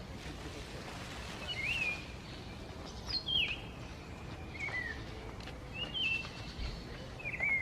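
A cak wilis abu songbird calling: five short, clear call notes that sweep quickly up and down in pitch, spaced about one and a half seconds apart, over a faint steady outdoor hiss.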